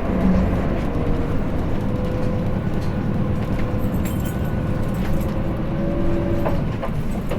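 Hino Blue Ribbon City diesel city bus heard from inside the cabin while it runs: a steady engine and road rumble with light rattles and clicks from the bodywork.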